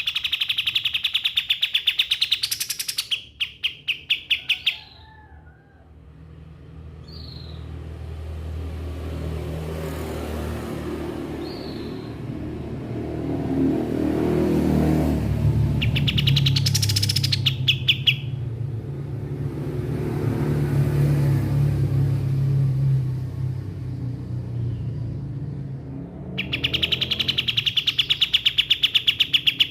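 Kapas tembak songbird singing a fast, loud trill of rapidly repeated high notes, in a long burst at the start, a brief one in the middle and another near the end. A low rumble rises and falls in the long gap between.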